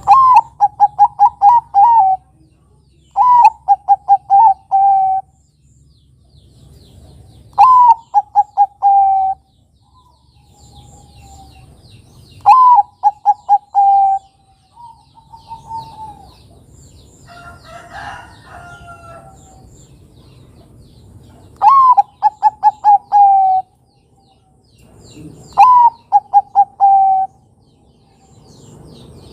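Bangkok-type zebra dove (perkutut) cooing: six phrases a few seconds apart, each a rising-falling opening note followed by a quick run of five or six short coos. Faint twittering of small birds comes between the phrases.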